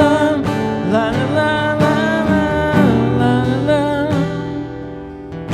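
Acoustic guitar strumming chords under a wordless sung melody, dying down near the end.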